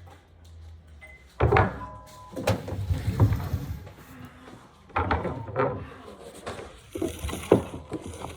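Handling noise: a run of knocks and thuds with some rustling, the loudest about a second and a half in, again around five seconds and near the end.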